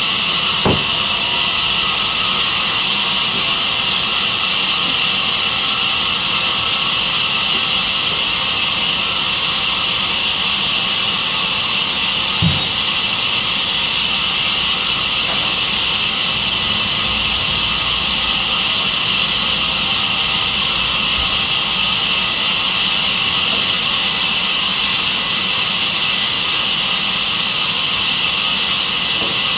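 Sawmill saw machine running steadily with a constant hiss and hum, with two short knocks, one about a second in and one near the middle.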